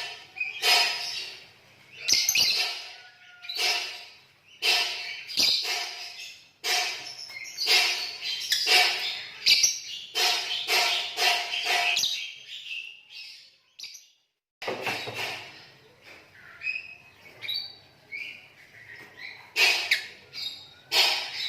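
Green lovebirds chirping and twittering in rapid, repeated bursts, with a short lull about two-thirds of the way through.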